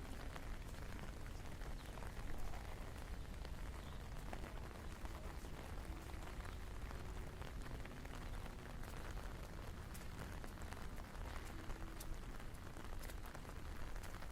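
Steady rain falling, heard as a dense haze of small drop ticks over a low rumble.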